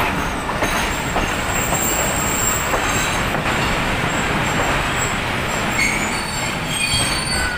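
Passenger coaches of a Pakistan Railways express rolling slowly along a station platform, heard from aboard: a steady rumble and rattle of wheels on rail with thin high squeals as the train brakes. The noise drops away at the very end as the train comes to a stand.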